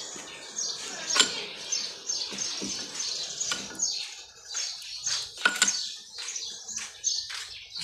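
Small birds chirping steadily with many short, quick, descending chirps. A couple of sharp clicks stand out, about a second in and again about five and a half seconds in.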